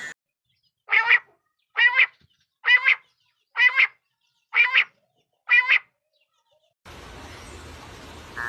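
A bird giving six short, pitched calls, about one a second, then falling silent. Near the end a steady background hiss starts.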